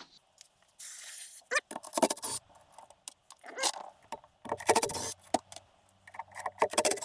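Metal engine parts and hand tools being handled during a teardown: a string of clinks, rattles and scrapes, with a brief rasping noise about a second in.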